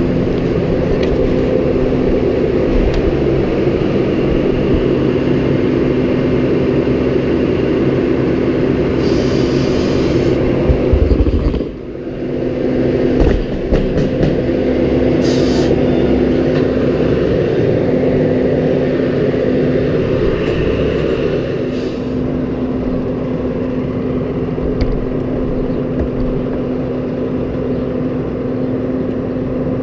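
Tractor engine running at a steady speed. About twelve seconds in, the sound drops for a moment and a few knocks follow before the steady running resumes.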